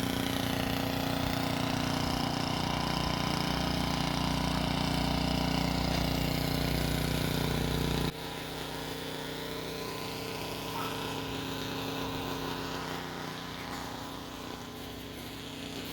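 An engine running steadily with an even hum, which drops off abruptly about eight seconds in, leaving a quieter steady engine-like background.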